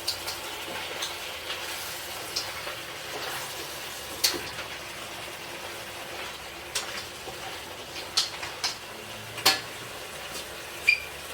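Food sizzling in a pan as it is stirred, with a spoon clicking against the pan now and then.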